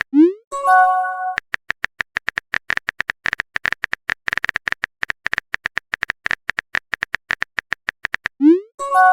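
Chat-app sound effects: a quick rising pop and a short electronic chime, then a fast, even run of keyboard typing clicks lasting about seven seconds, then another rising pop and chime near the end.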